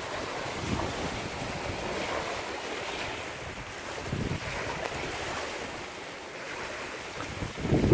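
Thunderstorm rain and wind: a steady rushing noise with wind buffeting the microphone, swelling sharply louder right at the end.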